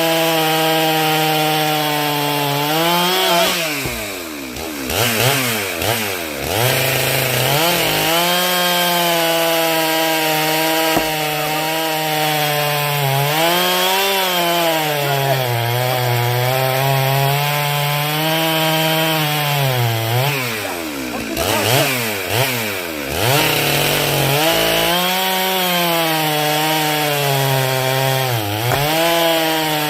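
Chainsaw running at high revs and cutting firewood logs, its pitch sagging several times as the chain bites into the wood and then climbing back.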